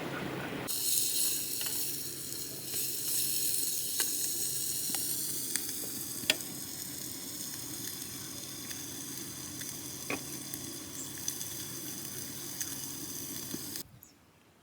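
Steady hiss of falling rain, with a few sharp ticks.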